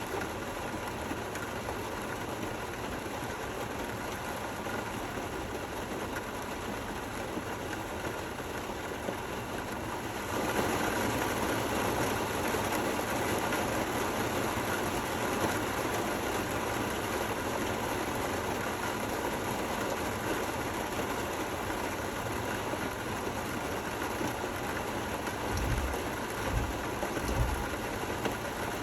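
Steady rain falling, an even hiss that grows louder about ten seconds in. A few low thumps near the end.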